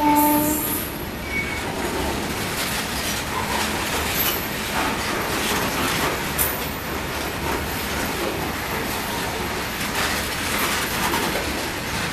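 Heavily loaded freight train wagons rolling past, a steady rumble with the clatter of wheels on the rails. A train horn sounding a steady chord cuts off within the first second.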